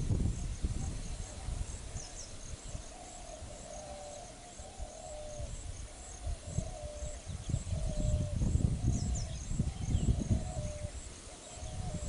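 Birds calling: one repeats a short wavering whistled note about once a second, with faint high chirps above it, over an uneven low rumble.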